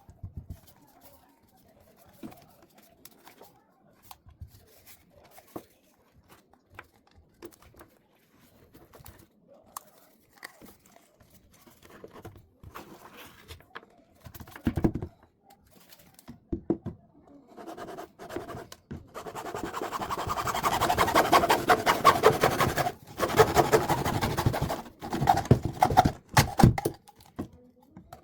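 Scattered small taps and handling noises, then about two-thirds of the way through a loud, dense rasping scrape that lasts several seconds, with short breaks.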